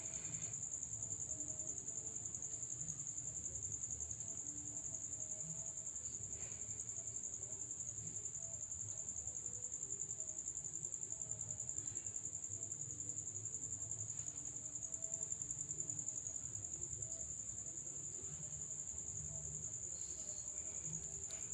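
A steady high-pitched trill runs unbroken over a low background rumble.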